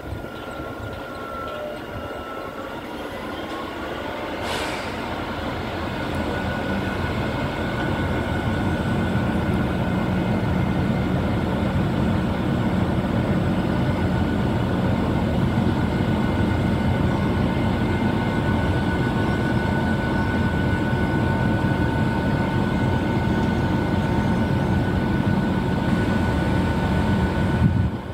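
Electric train standing at the platform with its equipment running: a steady hum with a thin high whine, growing louder over the first several seconds and then holding. A single sharp click comes about four and a half seconds in.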